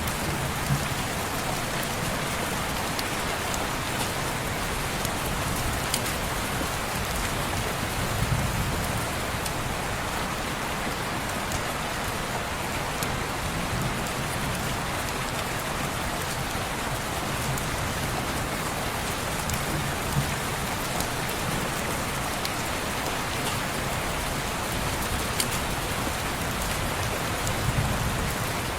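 Steady rain falling on a window, an even hiss with a few sharp clicks scattered through it.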